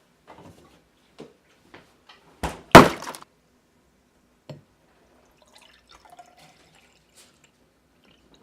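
A drink container being handled and opened: scattered small clicks and knocks, then a loud sharp double crack about two and a half seconds in, and a single thunk a couple of seconds later.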